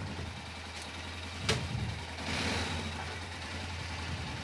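Honda Rincon 650 ATV's single-cylinder engine idling steadily, with one sharp click about a second and a half in and a short hiss soon after.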